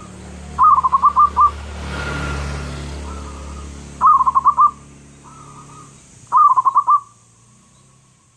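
Zebra dove (perkutut) cooing: three loud bursts of five or six quick staccato coos, about half a second in, about four seconds in and near six and a half seconds, with softer phrases between them. A low steady hum runs underneath.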